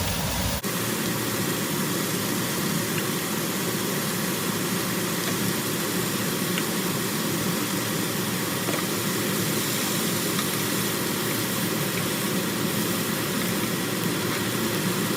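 Julienned chicken breast sizzling steadily in hot olive oil in a frying pan on high heat, browning.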